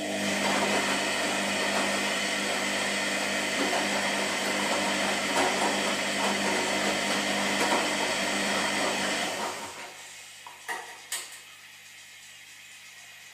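Washing machine running, a steady motor whir with a hissing noise over it, which stops just before ten seconds in; two short clicks follow, then only a faint low hum.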